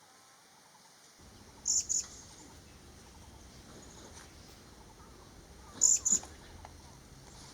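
Vernal hanging parrot giving its two-note call twice: each call a quick pair of short, high-pitched notes, one near two seconds in and one about four seconds later. A steady low rumble runs underneath.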